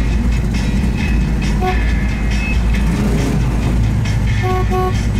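Steady low rumble of car engines idling in stopped traffic, heard from inside a car. A car horn gives a short toot about a second and a half in, then two quick toots near the end.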